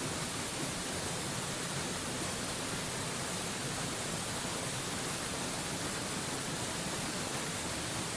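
Waterfall white noise: a steady, unchanging rush of falling water, an even hiss that spreads from low to very high pitches.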